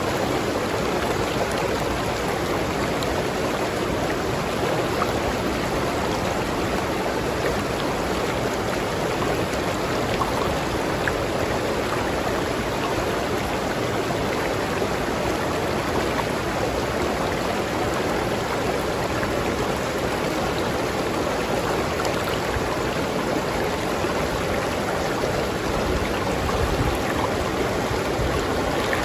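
River stream flowing over rocks: a steady rush of water with a constant splashing texture.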